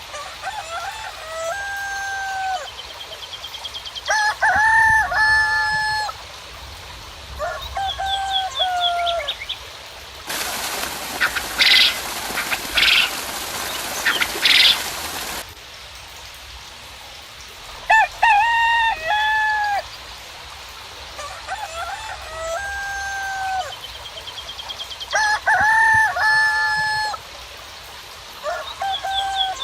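A rooster crowing over and over in short pitched phrases, with faint high twittering of small birds. About ten seconds in, a loud hiss with sharp chirps breaks in for around five seconds and cuts off suddenly.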